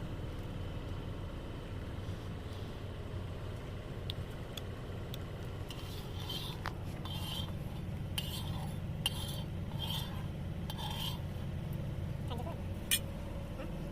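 A metal cooking utensil scraping and stirring in a pot, in short strokes about once a second through the second half, over a steady low rumble.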